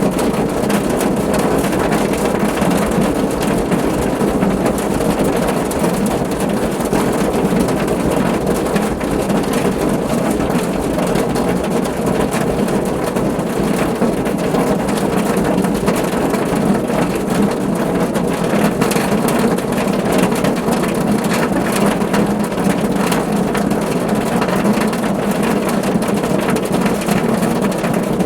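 Steady rain falling on a car roof: a dense, even patter of drops that holds constant throughout.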